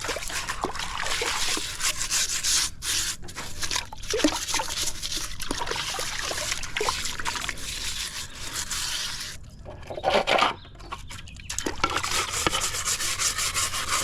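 A toilet brush scrubbing inside a pool skimmer: a scratchy bristle scrubbing in a run of strokes, dropping off briefly about ten seconds in before it picks up again.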